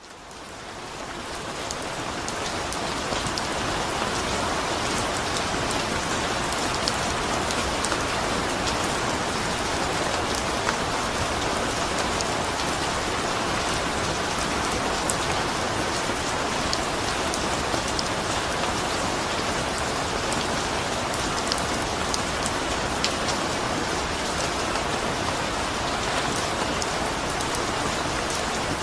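Steady rain falling, with a dense hiss and many scattered individual drop ticks. It fades in over the first couple of seconds.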